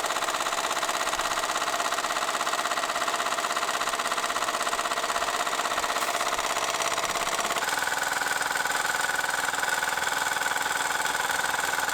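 Portable tire-inflator compressor running steadily with a fast, even chatter, pumping air to pressurise the oil lines and prime a Rotrex supercharger. Its tone shifts about seven and a half seconds in.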